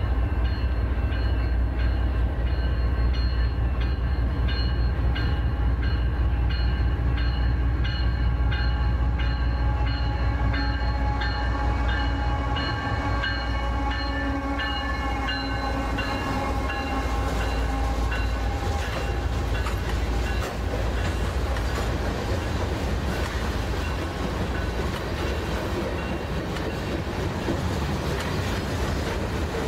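Canadian National freight train passing. The diesel locomotive's horn sounds over a deep engine rumble for about the first 16 seconds, its pitch dropping slightly as the locomotive goes by. After that come the steady noise of freight cars' wheels rolling on the rails.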